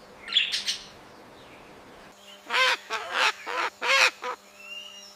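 A parrot calling: one brief high chirp just after the start, then, about two and a half seconds in, a run of about six short pitched calls in quick succession.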